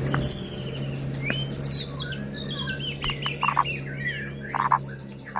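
White-rumped shama (murai batu) singing a fast, varied song of clear whistles and pitch glides, broken by short clicks and harsh rasping 'kretekan' notes.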